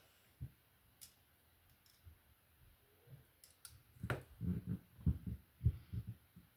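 Faint clicks and taps of plastic Lego pieces being handled: a few sharp little clicks, then a stronger click about four seconds in followed by a quick run of soft knocks.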